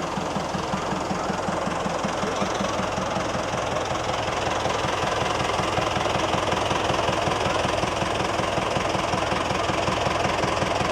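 An engine idling with a steady, even pulsing beat.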